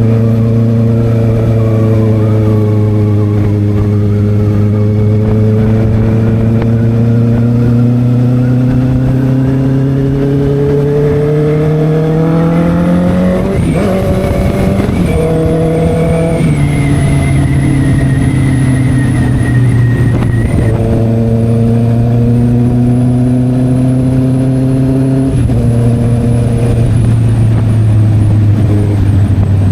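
Honda CB650R inline-four running through an SC Project aftermarket exhaust under acceleration. The engine note climbs steadily for the first half, then steps down in pitch at a few gear changes and pulls again.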